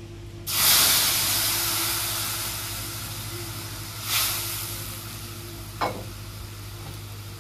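Wet ground mustard paste hitting hot oil in a kadhai: a loud sizzle starts suddenly about half a second in and slowly dies down, flaring up again briefly about four seconds in.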